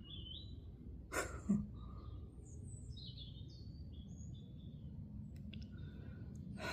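Birds chirping faintly in short, scattered calls over a steady low background rumble, with one short sound about a second in.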